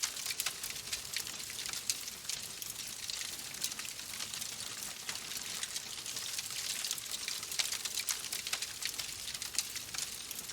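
Wood fire crackling in a fireplace: a steady hiss with many small sharp pops and snaps, a few of them louder.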